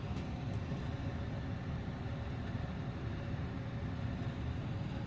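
Steady low rumble and hiss of room background noise, with a couple of faint clicks.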